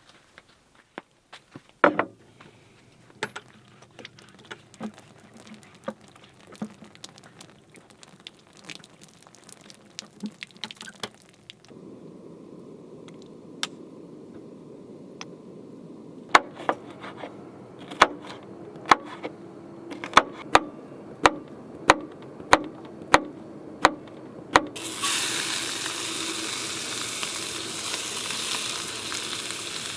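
Scattered clicks and knocks of cooking prep, then a steady low hiss from about twelve seconds in and a run of evenly spaced sharp taps. Near the end, sausage and vegetables go into a hot pan and sizzle loudly.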